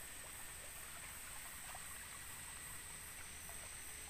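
Forest ambience: a steady high-pitched insect drone over a faint, even wash of water, with a few tiny ticks.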